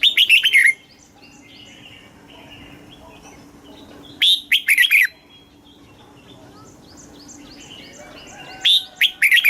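Red-whiskered bulbul singing three short, loud phrases about four seconds apart, each a quick run of notes sliding downward. Fainter chirps sound between the phrases.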